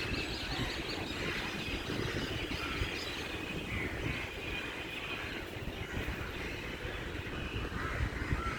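Outdoor ambience: an uneven low rumble with faint short chirps, like birds, scattered through it.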